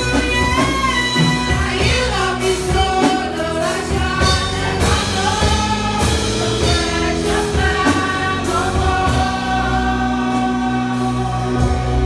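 Gospel-style carol music: group singing over an instrumental backing with a steady beat.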